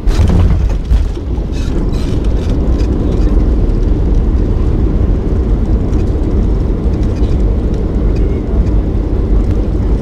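Boeing 737-800 landing, heard inside the cabin. The noise jumps up suddenly at the start with a clatter of knocks and rattles over the first few seconds, then settles into a loud, steady, heavy rumble.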